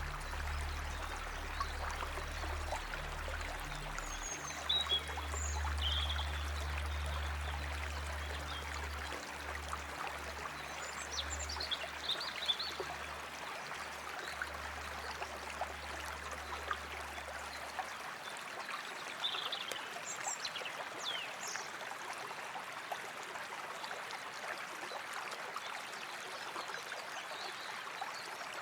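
Flowing water running steadily, with short bird chirps a few times. A low, sustained musical drone sits under it and ends about two-thirds of the way through.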